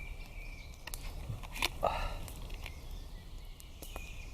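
Someone drinking milk: scattered small clicks and knocks, with a louder gulp about two seconds in.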